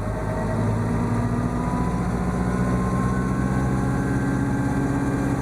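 Schweizer S-300CBi helicopter's four-cylinder Lycoming piston engine and rotor running steadily, with a fast low chop and the pitch creeping slightly upward.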